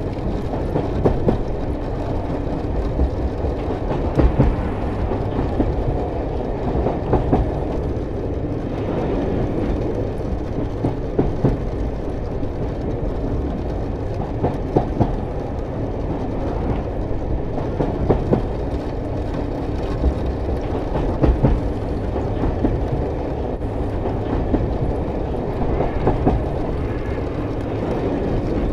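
Double-stack intermodal freight train rolling through a road crossing: a steady low rumble of the wagons, with irregular clacks and knocks from the wheels on the rails.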